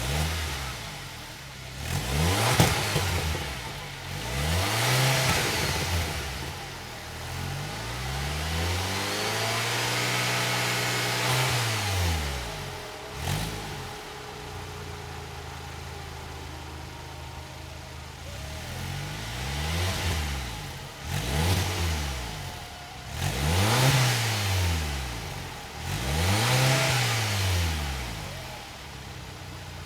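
2012 Audi A4's turbocharged 2.0-litre four-cylinder through an aftermarket turbo-back stainless steel dual exhaust with a high-flow cat, revved repeatedly from idle: several quick blips early on, one longer rev held around the middle, then a run of blips near the end.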